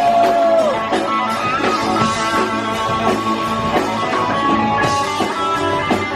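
Rock band playing live, with electric guitar to the fore over drums, bass and keys.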